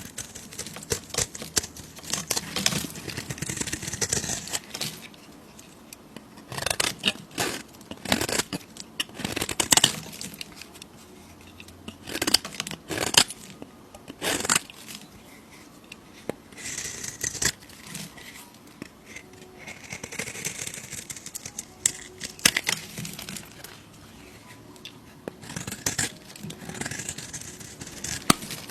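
Soap being cut with a knife: crisp scraping and crackling strokes in irregular bursts, with sharp clicks between quieter pauses.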